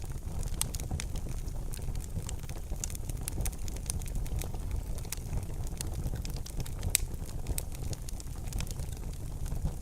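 Wood fire in a fireplace crackling: scattered sharp pops and snaps over a steady low rumble of the flames, with one louder pop about seven seconds in.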